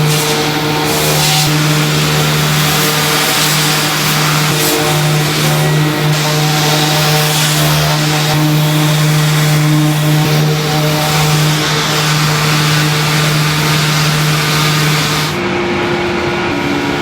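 Production-line machinery running with a steady, loud hum and a dense hiss over it. The sound changes abruptly about fifteen seconds in to a different machine noise.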